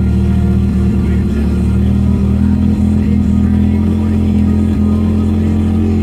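1984 Mazda RX-7's rotary engine running steadily just after a cold start, still cold and being choked by hand because its choke doesn't work.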